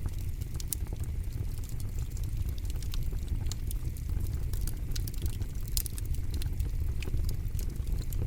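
Campfire burning with frequent sharp, irregular crackles and pops over a steady low rumble.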